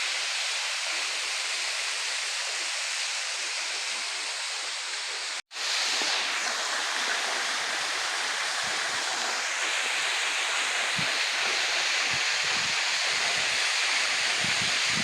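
Waterfall with a low dry-season flow, water splashing and falling steadily. The sound cuts out for a moment about five and a half seconds in.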